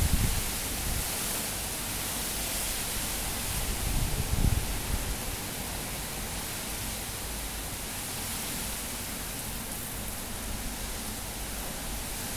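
Cyclone-force wind rushing steadily, with gusts buffeting the microphone in low rumbles near the start and again around four seconds in.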